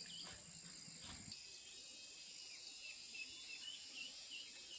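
Steady high-pitched chorus of insects, crickets, with a run of short repeated chirps a little past the middle.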